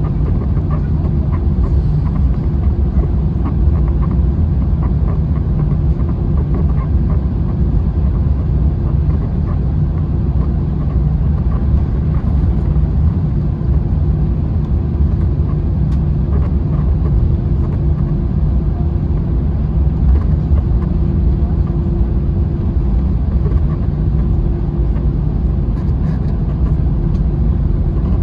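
Airbus A321 heard from inside the cabin: a steady low rumble with a constant hum, the jet engines and the airframe's noise at an even setting.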